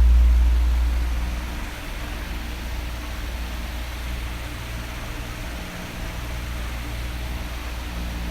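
Electric fan running steadily: an even rushing of blown air over a low hum that is loud at first, drops off about a second and a half in, and swells again near the end.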